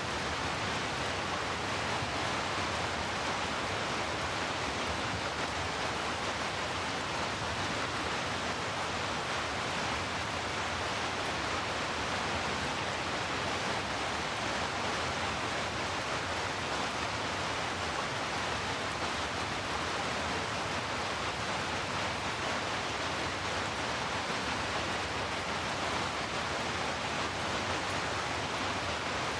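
Heavy rain mixed with brown noise for sleep, a steady, unbroken hiss with no single drops or gusts standing out.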